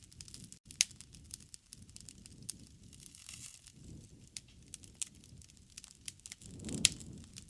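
Wood campfire crackling, with sharp pops at irregular intervals over a low rush of flame that swells briefly near the end.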